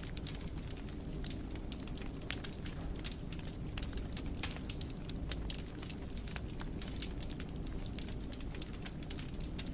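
Wood fire crackling in a fireplace: many quick, irregular pops and snaps over a steady low rumble of burning.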